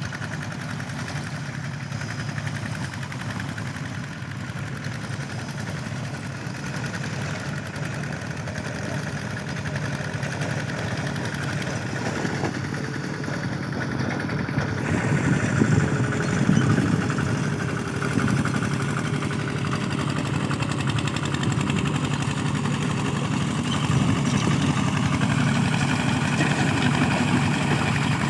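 Mini tractor engine running steadily while ploughing hard ground, growing louder from about halfway through.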